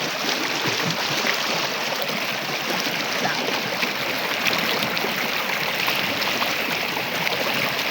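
A river's running water: a steady rush of flowing water.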